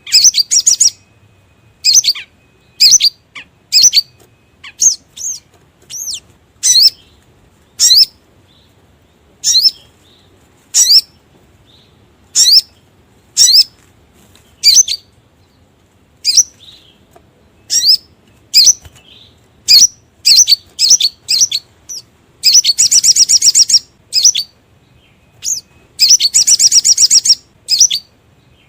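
Sogon (sogok ontong) bird song, played as a lure call: short, sharp, high chirps about once a second, broken twice near the end by a longer, fast, buzzing trill.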